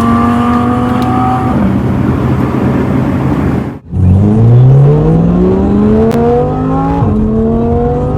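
Audi R8's 5.2-litre naturally aspirated V10 with a custom exhaust, accelerating hard: its pitch climbs under throttle and drops sharply at upshifts about one and a half seconds and seven seconds in, with a brief break just before four seconds.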